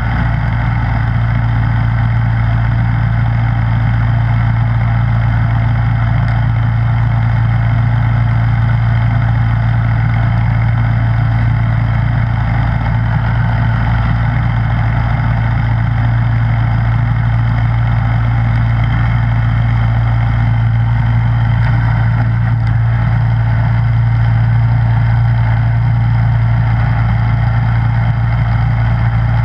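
Snowblower engine running at a constant speed: a steady low drone with no revving or pauses.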